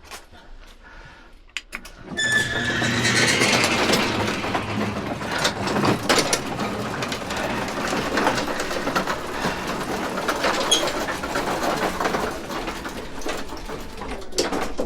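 Motorized garage door starting up about two seconds in with a short rising squeal, then running with a steady mechanical rattle and clatter as the door travels.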